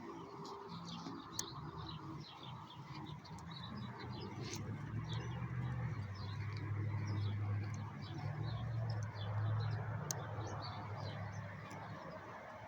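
Many small birds chirping, with a low engine hum that swells up through the middle and eases off near the end.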